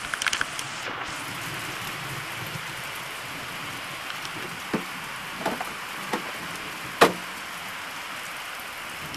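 Steady rain falling, with a few sharp taps close by in the second half, the last and loudest about seven seconds in.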